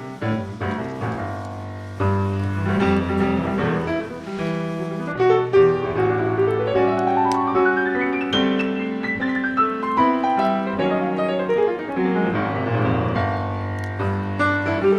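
Background piano music, a calm piece with flowing runs that climb and fall in the middle.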